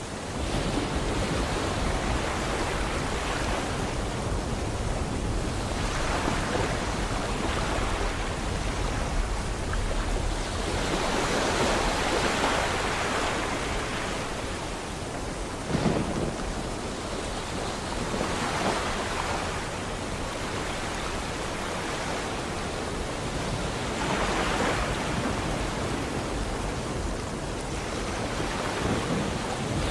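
Sea waves surging and breaking every few seconds over a steady hiss of rain, with one short sharp crack about sixteen seconds in.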